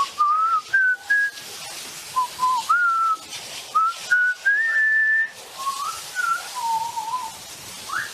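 A parrot whistling a string of short, clear notes that slide up and down in pitch, with loud hissing rushes of noise in between.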